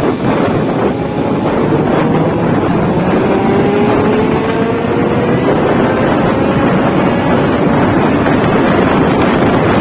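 Motorcycle engine running loud under heavy wind noise on the microphone, its pitch climbing slowly and steadily as it pulls through a long gear.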